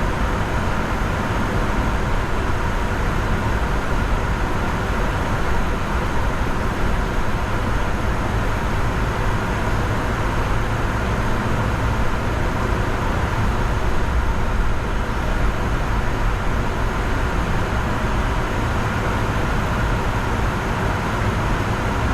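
Steady flight-deck noise of a Bombardier Challenger 605 business jet in flight: a loud, even rush of airflow and engine noise with a faint steady hum.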